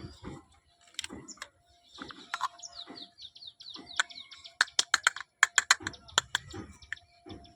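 Small toy kitchen pieces being handled and unpacked: a string of light taps and clicks, with a fast run of short high chirps about two to four seconds in and a quick burst of sharp clicks a little past the middle.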